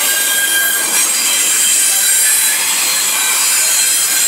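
Double-stack intermodal freight train's well cars rolling past close by: a steady loud rush of steel wheels on rail, with high-pitched wheel squeal.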